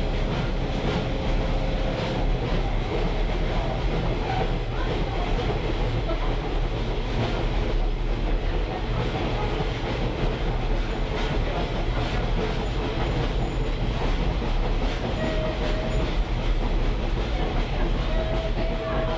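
Steady rumble and rattle of a caboose rolling along the track, with two brief high squeals near the end.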